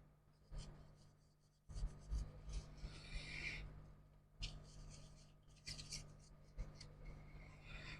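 Irregular scratching and rubbing of hand work on a workbench, with a few light clicks, over a steady low electrical hum.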